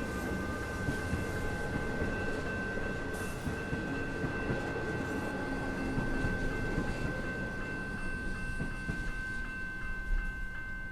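Suburban electric train passing over a level crossing, a dense rumble of wheels on track. A steady high tone sounds throughout and breaks into rapid even pulses near the end.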